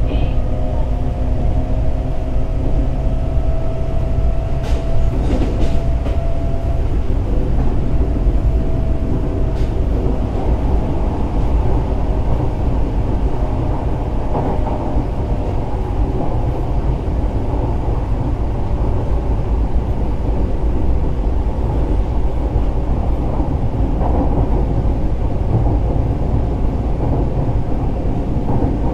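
Fukuoka City Subway 1000N series train running on the Chikuhi Line, a steady low rumble of wheels on rail heard from on board. A faint motor whine fades out within the first several seconds, leaving the even running rumble.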